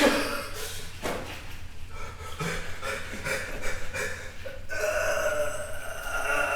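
A person breathing hard in the shock of an ice bath's cold water, then letting out a long, held groan about five seconds in.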